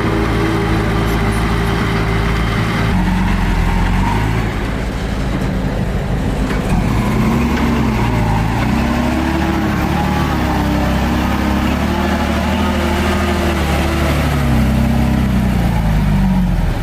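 Mitsubishi BD2F bulldozer's diesel engine running under load. Its pitch is steady at first, then rises and falls repeatedly from about three seconds in.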